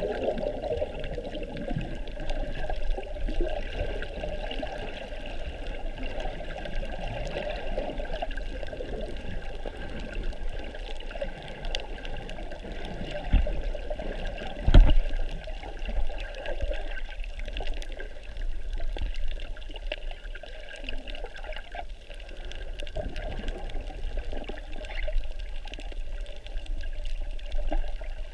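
Muffled water sound of snorkeling heard through a camera's waterproof housing: water sloshing and moving around the camera, with a couple of low knocks about halfway through.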